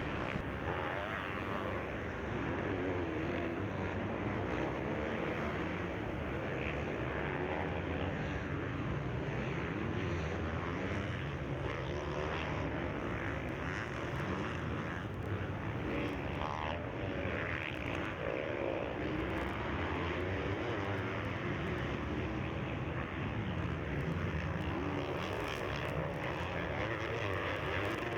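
Motocross bike engines racing around the track: a steady, blended engine drone with revs rising and falling as the bikes accelerate and back off.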